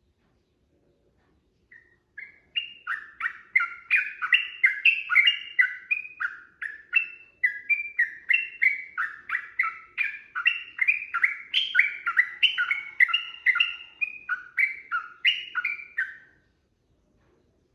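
Yellow-vented bulbul (trucukan) singing a long, fast run of short, bubbly chirped notes, about three a second. It starts about two seconds in and stops just over a second before the end.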